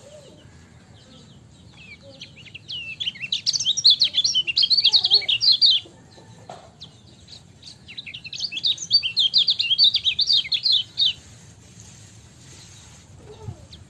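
Kecial kuning, a white-eye, singing two fast, high chirping twitters, each about three seconds long, separated by pauses.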